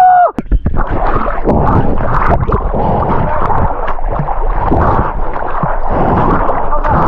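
River water rushing and splashing loudly and unevenly around a boat running a rapid. A steady tone cuts off right at the start.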